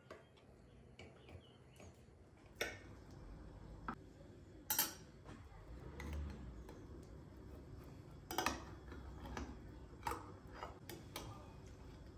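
A handful of light, sharp clicks and knocks at irregular intervals, about eight in all, the loudest about five seconds in and again about eight and a half seconds in, over a faint low hum.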